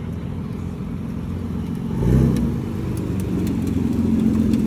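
A car engine running, swelling briefly about two seconds in and then holding a little louder.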